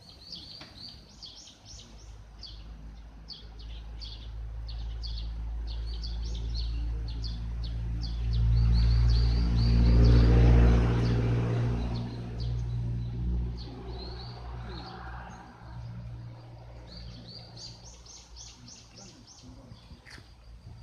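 Small birds chirping busily in quick, high repeated notes. Around the middle a low engine rumble swells up, drowns them out briefly, and fades away.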